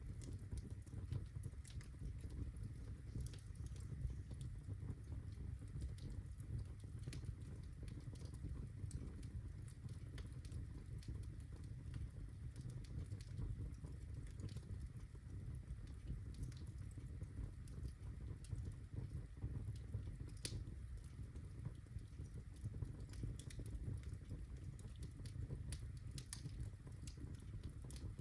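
Birch logs burning in a fireplace: a steady low rumble of flames with scattered sharp crackles and pops.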